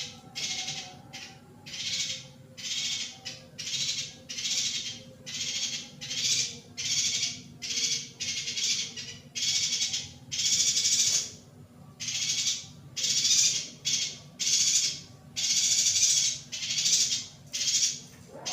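Female yuhina calling over and over: short, harsh, high-pitched chattering calls about once a second, a few of them drawn out longer, over a faint steady low hum.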